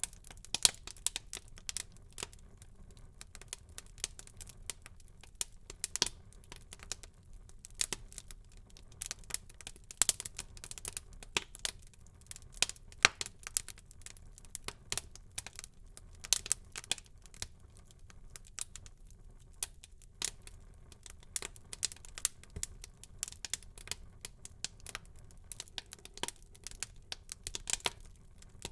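Wood fire burning in a fireplace, crackling and popping: many sharp irregular pops and snaps over a low, steady rush of flame.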